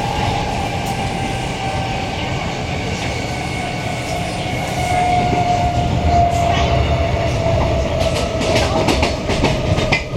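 Queensland Rail electric multiple unit train running along the line: a steady rumble of wheels on track with a steady whine that sinks slightly in pitch. It grows a little louder about halfway through, with a run of clicks from the wheels over the rails.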